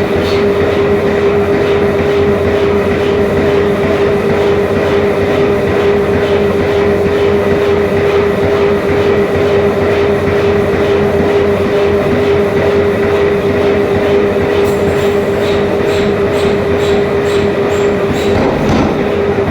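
Forging-shop machinery running with a loud, steady drone and a constant hum. Faint regular ticking comes in over the last few seconds.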